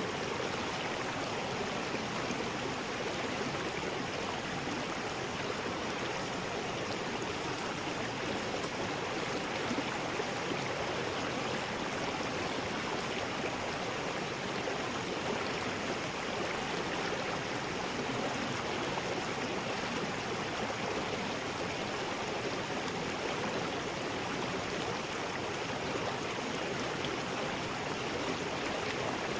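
River rapids rushing steadily, a constant even roar of water with no breaks.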